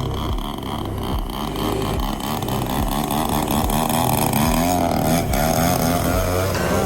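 DLE 35RA single-cylinder two-stroke petrol engine on a large model aerobatic plane, running steadily.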